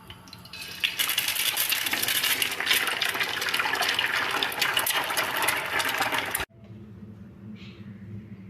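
Water running in a steady, loud gush for about five and a half seconds, cutting off abruptly.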